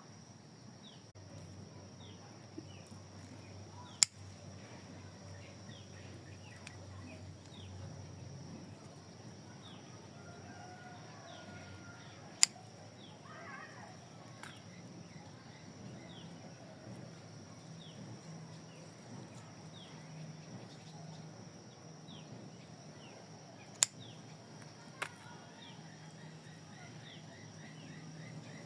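Birds calling outdoors: many short, falling chirps repeat throughout, with a longer call near the middle. A low steady hum runs underneath, and four sharp clicks stand out.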